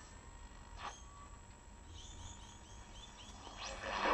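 A faint run of short, high chirps over low hiss, with a rising whistle-like glide near the end, coming through the FM tuner's broadcast audio.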